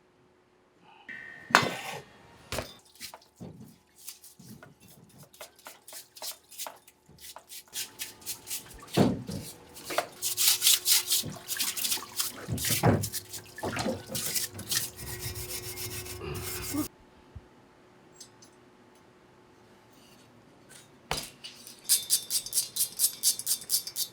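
Hand tools and metal engine parts being worked during engine assembly: metal clinks and rubbing. Long runs of rapid, even clicking come through the middle and again near the end, after a quieter gap.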